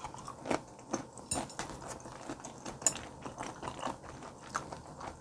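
Close-miked chewing of firm raw fish sashimi: a run of short, crisp crunching clicks, several a second.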